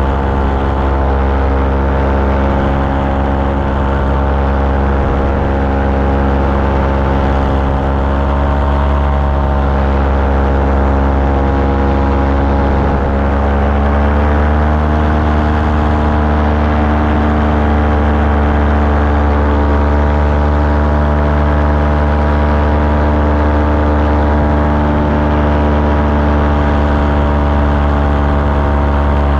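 Engine of a small powered aircraft running steadily in flight, its pitch rising slightly about halfway through and then holding at the higher speed.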